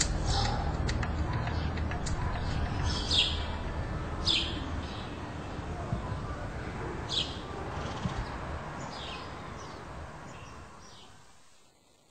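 Outdoor ambience: a steady low hum with a small bird chirping now and then, short high chirps that drop in pitch, a second or a few seconds apart. It all fades out near the end.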